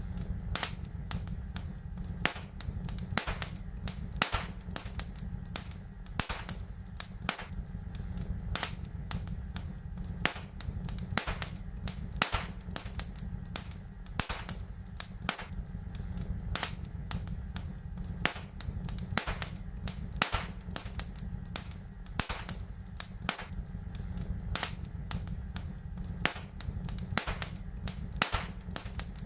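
Wood fire in a fireplace crackling: sharp pops and snaps come irregularly, several a second, over a steady low rumble.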